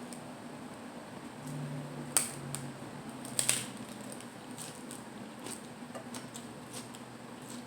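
Close-miked chewing of a lettuce salad wrap with moist, squishy mouth sounds and small crackles, and two sharp crunches about two seconds in and again a second later.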